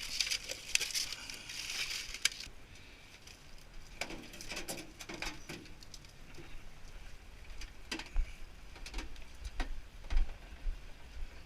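Hand tools working on a tankless water heater's metal parts during teardown: a scratchy rattle for the first couple of seconds, then scattered sharp clicks and knocks.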